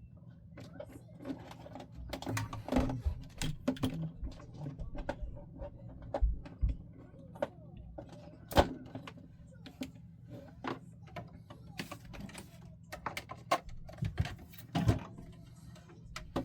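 Irregular clicks and knocks of small parts being handled on a workbench, with the sharpest click about eight and a half seconds in, over a steady low hum.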